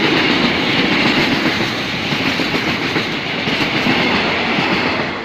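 Train passing close by: steady rolling noise of the wheels and cars with a clickety-clack over the rail joints, beginning to fade away near the end.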